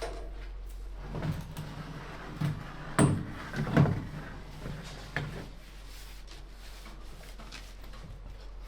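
Several irregular knocks and thuds, the loudest about three and four seconds in, over a steady low hum.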